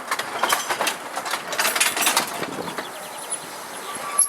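Tram 8, an electric narrow-gauge tram, running along its track with its wheels clicking and rattling over the rails. The clicks come thick for about the first two seconds, then the running settles steadier.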